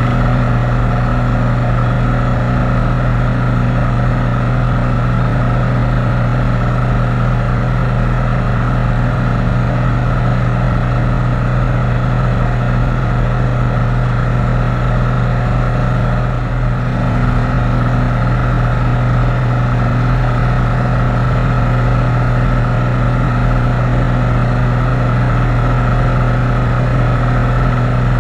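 Light airplane's piston engine and propeller running at a steady cruise setting, an even low drone with a constant pitch that does not change, dipping slightly for a moment about sixteen seconds in.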